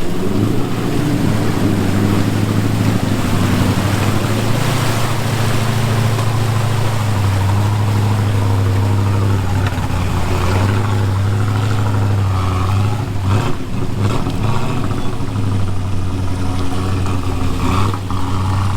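A motor vehicle's engine running steadily at an even pitch, with a brief dip in level about 13 seconds in.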